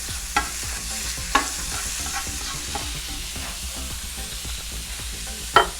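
Ground turkey sizzling in a hot cast iron skillet: a steady frying hiss with a few light clicks.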